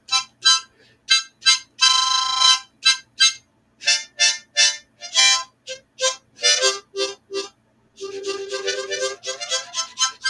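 Hohner harmonica played by an amateur: a run of short puffed notes and chords with gaps between them, one longer held chord about two seconds in, then a quicker, unbroken passage near the end.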